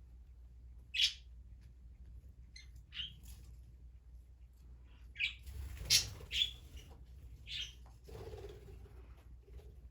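Pet parrots, budgies or a green-cheeked conure, giving short sharp chirps and squawks, about six separate calls with the loudest a little past halfway.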